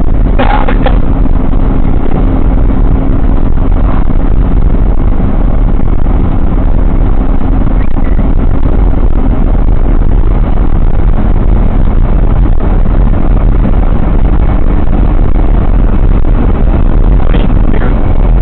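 Loud, steady road and engine rumble of a moving car, heard from inside the cabin through a dashcam's built-in microphone.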